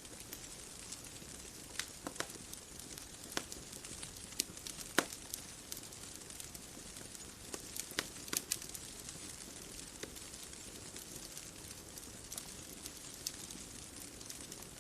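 Wood fire crackling: irregular sharp pops and snaps over a steady soft hiss, with a small cluster of pops about halfway through.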